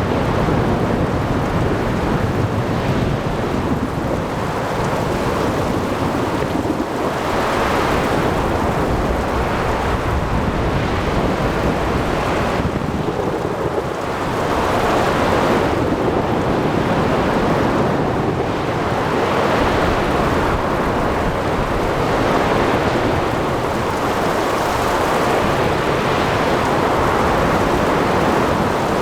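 Ocean thunderstorm: rain and wind over crashing waves, with low thunder rumbling. The noise swells and ebbs every few seconds.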